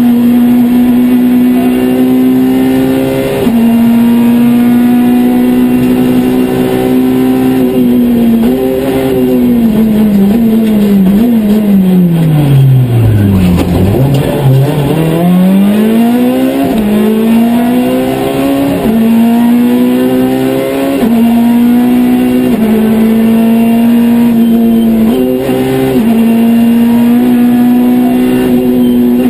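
Citroën C2 R2 Max rally car engine heard from inside the cabin, running flat out high in the revs with quick gear changes. About halfway, the revs fall steadily for a few seconds to a low point, then climb again through a run of upshifts.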